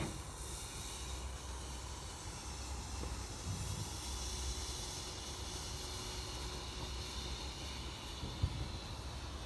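A garden firework fountain hissing steadily as it sprays sparks, loudest about halfway through, with one sharp crack near the end.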